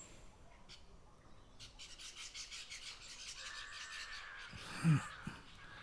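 Birds chirping in the background, with a quick run of rapid repeated high chirps in the middle. A brief low vocal sound, falling in pitch, near the end.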